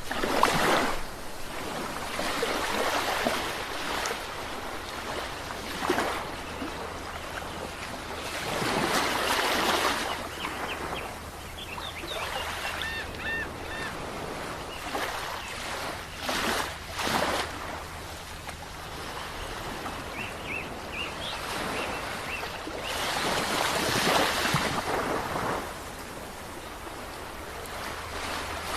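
Ocean waves breaking on a shore: a steady wash of surf, with a surge of breaking water every few seconds. Faint short high bird calls come in twice near the middle.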